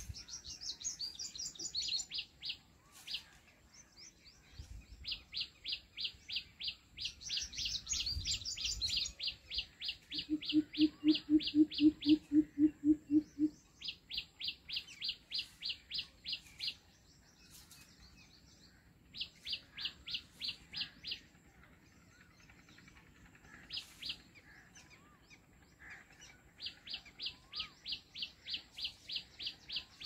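Birds calling: a high chirp repeated quickly, about five a second, in runs of a few seconds with pauses between, with a few jumbled higher notes near the start and around eight seconds in. Around the middle a lower pulsed call at about the same pace is the loudest sound for about three seconds.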